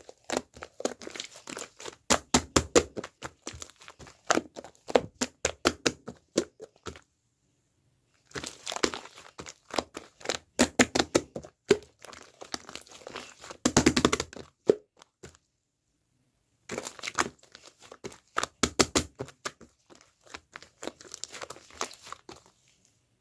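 Slime being squished, pressed and stretched by hand, giving fast runs of sticky clicks, pops and crackles. Two short dead-silent breaks split it into three stretches.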